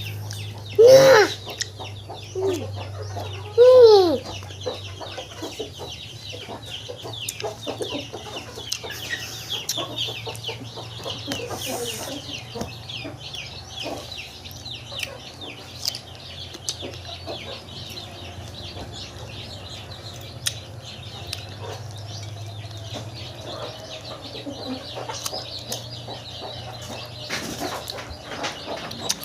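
Chickens clucking, with two loud calls about one and four seconds in and softer clucks after that, over a steady low hum.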